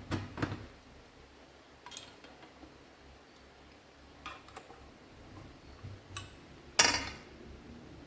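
Metal parts and tools being handled while an air-suspension compressor is worked on: scattered light clinks and knocks, with one louder ringing clank near the end.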